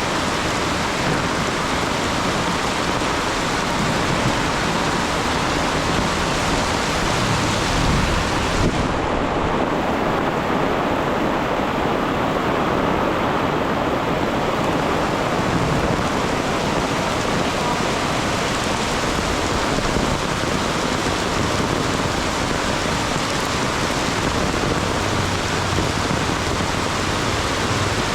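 Heavy rain pouring steadily, a dense, even downpour hiss; the high hiss dulls for a few seconds about nine seconds in.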